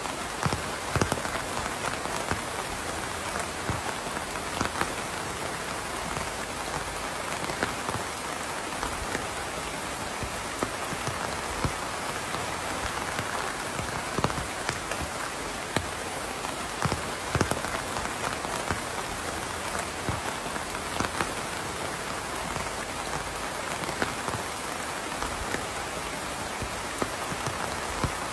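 Steady rain falling on a surface, with frequent individual drops landing as sharp irregular ticks over an even hiss.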